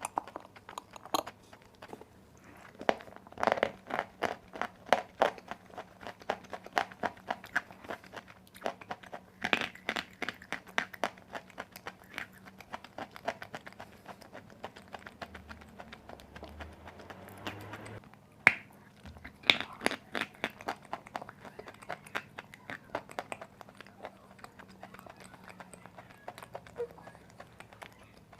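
Dry white clay being bitten and chewed close to the microphone: rapid runs of crisp crunches with short lulls between mouthfuls. A single sharp crack of a bite comes about eighteen seconds in.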